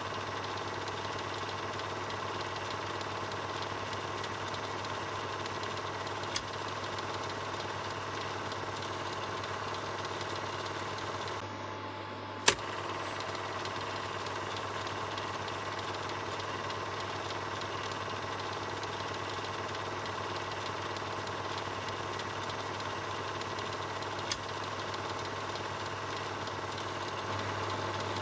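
Film projector running: a steady mechanical whir with a low hum. A few sharp clicks come through it, the loudest about halfway, just after a brief drop in the whir.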